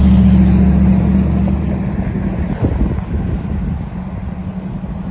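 Diesel locomotive of a passing Amtrak train, its steady low engine hum loud at first, then fading away after about two seconds as the train recedes.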